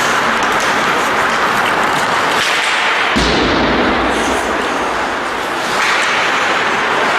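Ice-rink game sound during a hockey match: a steady wash of skates scraping on ice, with short sharp clacks of sticks and puck. There is a dull thud about three seconds in, like the puck or a player hitting the boards.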